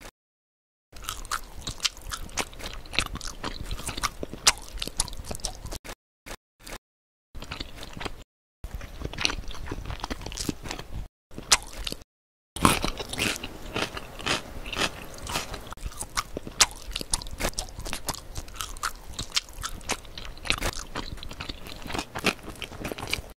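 Close-miked, crunchy biting and chewing as in an ASMR mukbang, dense crackles and clicks in several stretches broken by short silences.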